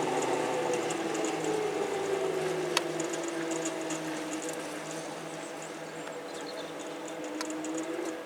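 Electric traction motors of the Train Jaune, a third-rail electric narrow-gauge train, whining as it slows into a station. The whine falls steadily in pitch, then turns up slightly near the end, over a steady hum, with a couple of light metallic clicks.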